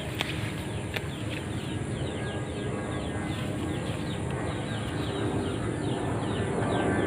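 Rural outdoor ambience: a steady low rumble with a rapid, even run of short, high, falling chirps, about three or four a second, and a couple of light clicks in the first second.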